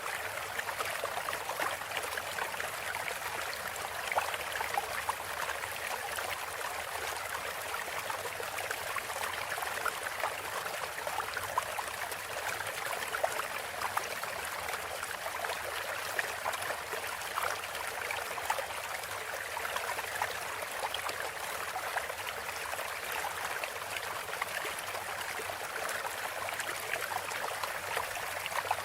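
Steady sound of flowing water, a trickling stream running evenly with small splashes.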